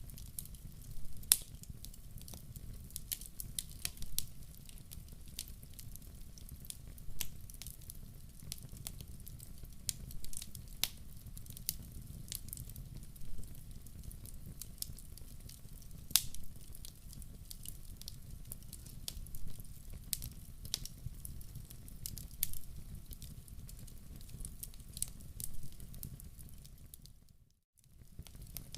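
Wood fire crackling in a fireplace: irregular sharp pops and snaps over a steady low rumble of the flames. Near the end the sound drops out almost to silence for about a second.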